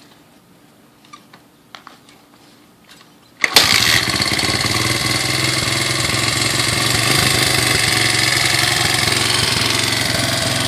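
Honda CRF80 dirt bike's small four-stroke single-cylinder engine being kick-started. After a few faint clicks it catches about three and a half seconds in with a sharp burst, then runs steadily.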